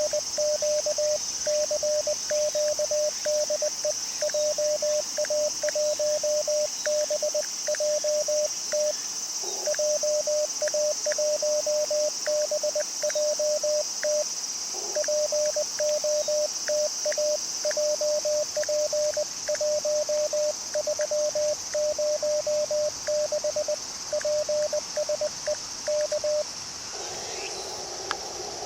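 Morse code sidetone from an Icom IC-705 transceiver: a single mid-pitched tone keyed in steady runs of dots and dashes at about 20 words per minute, calling CQ POTA. It pauses twice briefly and stops a couple of seconds before the end. Crickets chirr with a steady high buzz throughout.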